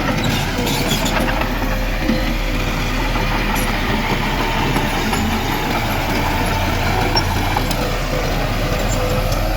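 Heavy diesel earthmoving machinery, a bulldozer or dump truck, running steadily under work with continuous engine noise.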